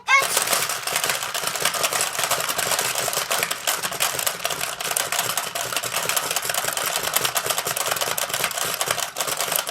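Fast, dense plastic clattering of a tabletop ball-grabbing game as several players hammer the crocodiles' tail levers, snapping the plastic jaws open and shut over the rattling plastic balls. It starts abruptly and keeps up without a break.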